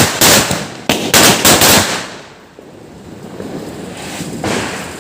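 Firecrackers going off in a rapid run of loud bangs, about three or four a second, stopping about two seconds in; one fainter bang follows near the end.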